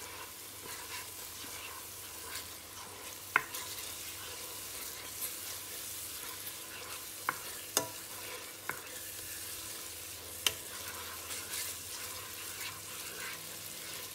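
Ground spice paste sizzling in hot oil in a nonstick pan while a spatula stirs it, with a few sharp knocks of the spatula against the pan.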